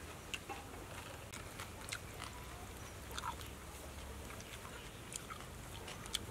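Soft eating sounds: a person chewing a mouthful of pork larb salad, with scattered short wet mouth clicks and light spoon clicks.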